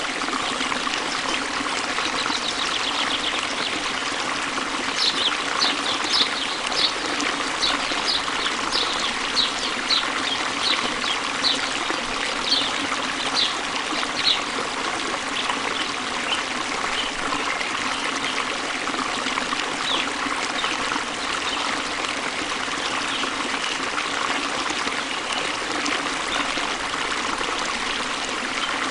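Water flowing and trickling steadily, like a small stream. Short high-pitched notes come about once a second through the first half.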